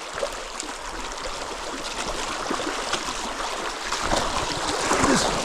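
Shallow river water rushing and gurgling over a rocky bed, a little louder in the last second or so.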